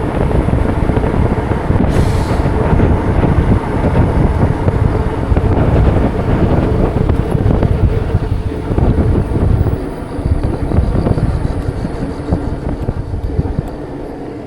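Steady low rumble of wind buffeting the microphone, mixed with road and traffic noise, while riding a bike. It eases off gradually over the last few seconds.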